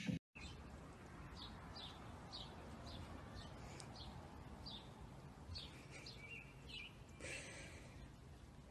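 Faint, quick bird chirps, several a second at times, over a steady background hiss.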